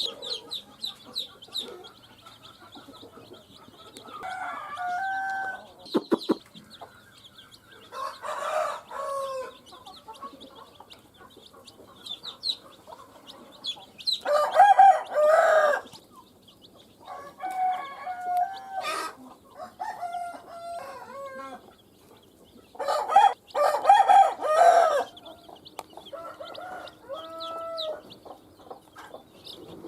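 Chickens calling: a series of loud pitched clucks and drawn-out calls, the loudest about halfway through and again near the end, over scattered high peeping of baby chicks.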